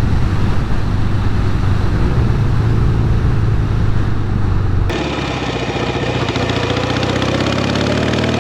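Norton Commando 850 Mk2's parallel-twin engine running on the move. About five seconds in the sound switches abruptly to a different microphone, and the engine note rises steadily as the bike accelerates.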